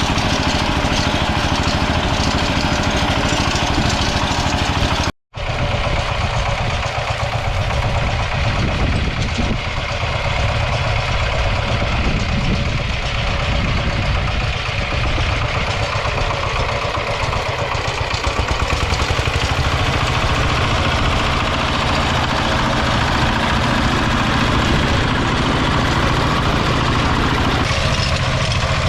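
Single-cylinder diesel engine of a Kentavr MB 1010DE-6 walk-behind tractor running steadily. The sound breaks off for an instant about five seconds in, then carries on.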